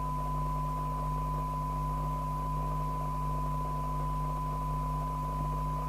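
Steady 1 kHz test tone from a signal generator, received by a Rotel RVC240 FM CB radio and heard through its speaker during a receive sensitivity check, over a low steady hum and faint hiss.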